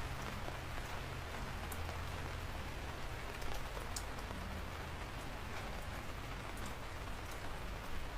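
Steady rain falling, with individual drops ticking now and then over an even hiss and a low rumble underneath.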